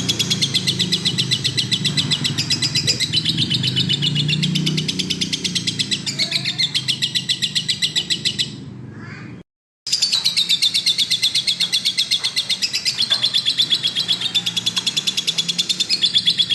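Lovebird chattering in a long, rapid trill of chirps, many notes a second. It fades and breaks off for about a second midway, then resumes just as strongly.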